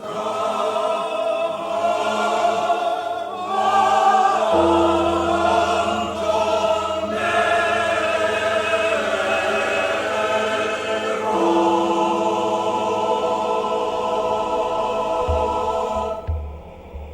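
Choral music: voices holding long, wavering notes over a low held bass note that comes in about four seconds in.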